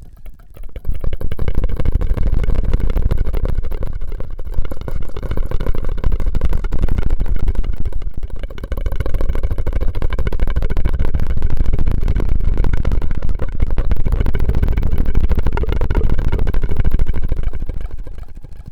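Close-miked ASMR mouth and drinking-straw sounds: a dense run of rapid crackling that starts about a second in, eases briefly midway, and fades near the end.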